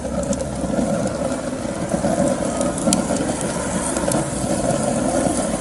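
Homemade rocket stove burning, the fire drawing hard through its elbow pipe and chimney with a steady low rumble and a faint held tone. A few sharp crackles come through, about three seconds and four seconds in.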